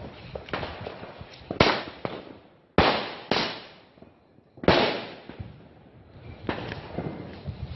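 Fireworks going off: four loud bangs, at about 1.5, 3, 3.5 and 4.5 seconds in, each trailing off in a rolling echo, with smaller pops and crackles between them.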